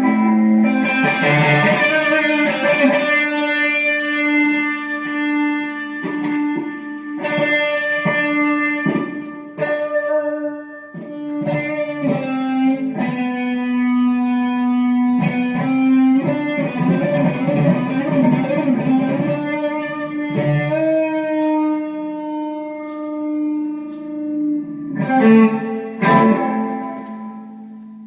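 Guitar playing an instrumental passage of a gospel song: long held melody notes that change pitch every second or two, some sliding between notes.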